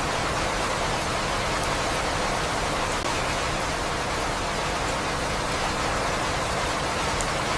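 Steady rain falling, an even unbroken hiss with a few faint high ticks.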